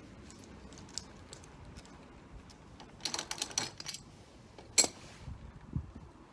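Handling noise of small hard objects during installation work: a quick rattle of clicks about three seconds in, one sharp loud click near five seconds, then a dull low thud.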